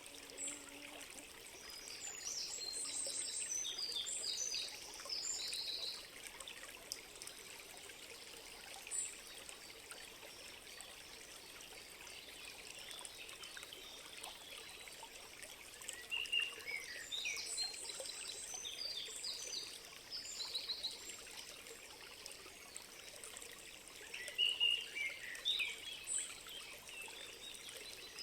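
A stream trickling and pouring steadily, with songbirds chirping in three short bouts of quick high notes: one near the start, one in the middle and one near the end.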